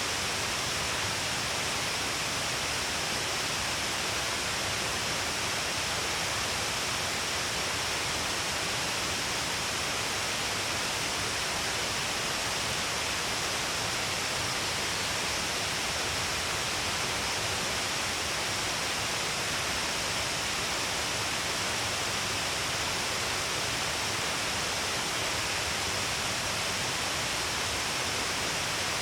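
Shiraito Falls, many streams of water pouring down a long cliff face, making a steady, even rush with no break or change.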